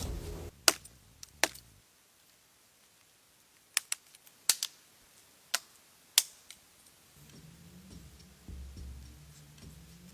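A run of about eight sharp, separate knocks or clicks at irregular spacing, some in quick pairs, over a quiet background. A low rumble comes in about seven seconds in.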